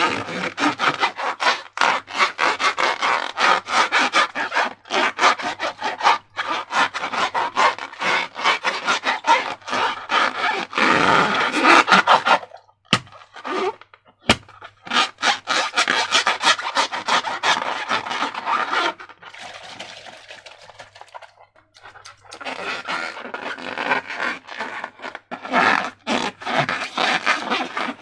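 Slime being worked by hand: a rapid, irregular run of wet squishing and scraping strokes that goes quieter for a few seconds about two-thirds of the way through.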